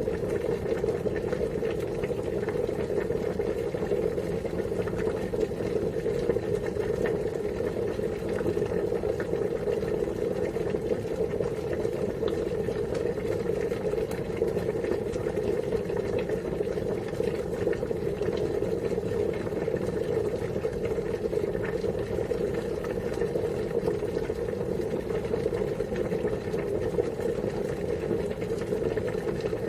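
Water at a rolling boil, bubbling steadily and continuously.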